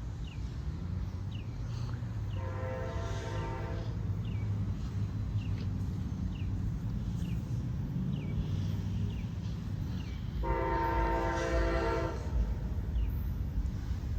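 An approaching Amtrak diesel passenger locomotive sounds two long blasts on its multi-tone air horn, several seconds apart. A low engine and rail rumble runs beneath them.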